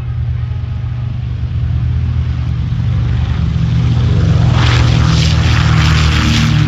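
Twin radial piston engines of a B-25 Mitchell bomber running at takeoff power, growing steadily louder. From about four and a half seconds in, a harsh, crackling exhaust rasp joins the deep propeller drone.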